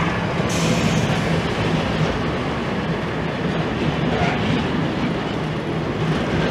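Train running past on the line, a steady rumble and clatter of wheels on the rails.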